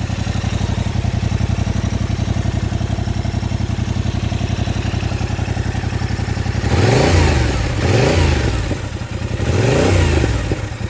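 2023 Yamaha MT-07's 689 cc parallel-twin engine idling through its stock exhaust, then revved three times, each rev rising and falling back to idle.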